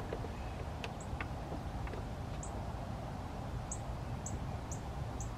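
Small birds chirping: short, high chirps every second or so over a steady low outdoor background, with a couple of faint clicks about a second in.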